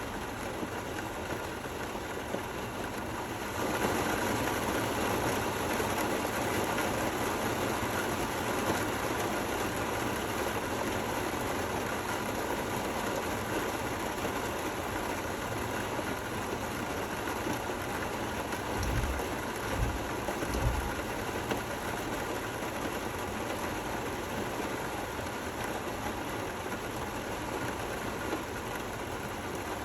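Steady rain falling, a dense even hiss that grows louder a few seconds in. A few low thumps come close together about two-thirds of the way through.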